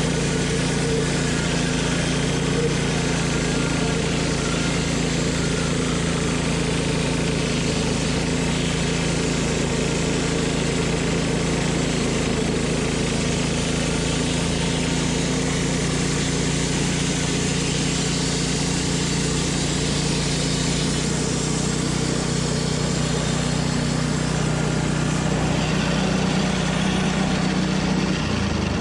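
Wood-Mizer LT10 bandsaw mill's gasoline engine running steadily, driving the band blade through a log. The blade is dull and leaving a wavy cut. Near the end the engine note drops as it slows down.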